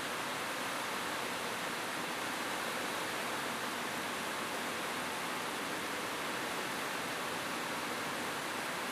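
Steady rain falling on a roof, an even hiss that holds level throughout.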